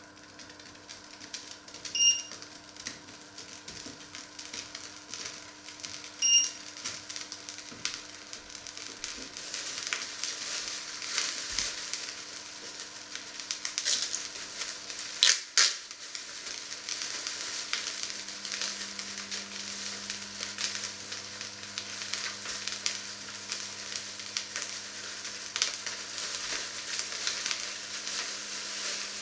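Food sizzling and crackling inside a covered cast-iron casserole on the hob, growing louder over the first several seconds as the pot heats, then holding steady. Two short electronic beeps come early, and a sharp click about halfway through.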